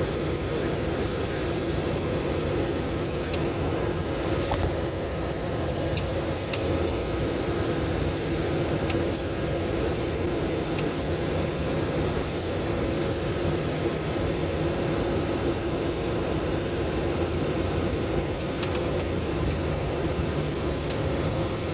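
Steady drone of a plane's engines and rushing air heard inside the passenger cabin during the descent to land, with a few faint clicks.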